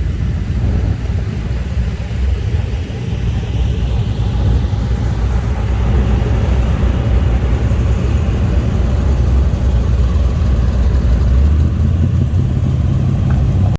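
Car engines running at low speed as cars roll past, a steady low engine sound that grows a little louder about four seconds in.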